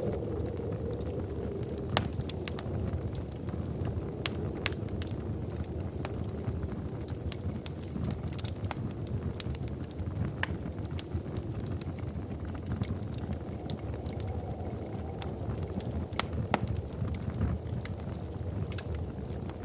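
Wood fire crackling in a fireplace: a steady low rumble of burning with frequent irregular sharp pops and snaps, a few of them louder than the rest.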